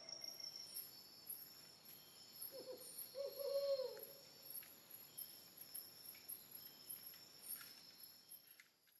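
Insects chirring steadily at a high pitch, with a short low hooting call that falls in pitch about three seconds in; the sound cuts out just before the end.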